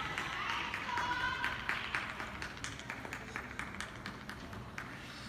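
Audience clapping, dense at first and thinning out as it fades, with a brief call from the crowd about a second in.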